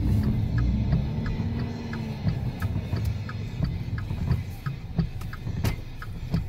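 Car engine heard from inside the cabin, its pitch rising and falling over the first two seconds, under a low rumble. A regular ticking sounds about one and a half times a second.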